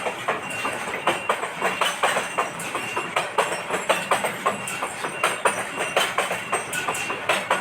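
Goods train wagons rolling past, their wheels clattering over the rail joints in a rapid, irregular run of clicks and knocks.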